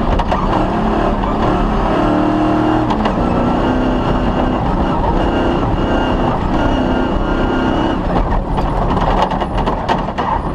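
Off-road rally car's engine running hard, its pitch stepping up and down as it shifts through the gears. Sharp knocks and rattles come through about eight to ten seconds in.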